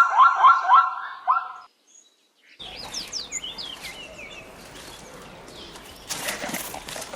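A zebra giving a quick series of about six barking calls, ending about a second and a half in. After a short silence comes outdoor background noise with small birds chirping, and a few rough noises near the end.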